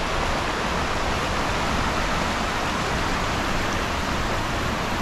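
A river running beside the campsite: a steady, even rush of flowing water.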